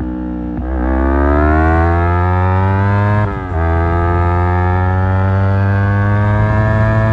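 Yamaha R25's parallel-twin engine through an Akrapovic exhaust, accelerating hard. The pitch climbs steadily, drops with an upshift about three seconds in, then climbs again more slowly.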